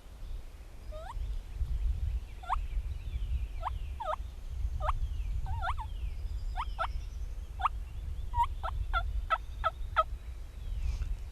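A series of turkey yelps: short sharp notes about one a second, quickening into a faster run near the end.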